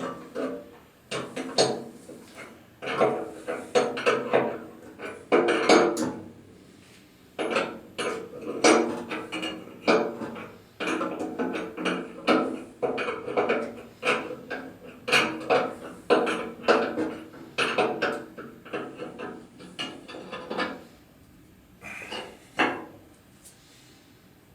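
Metal hand tools and engine parts clanking and clinking: a long series of irregular knocks, each with a short metallic ring, thinning out near the end.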